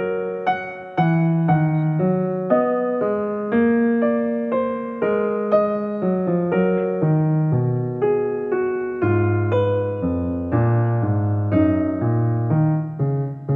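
Soft background music played on an electric piano: a slow, gentle melody of notes struck about every half second over a low bass line.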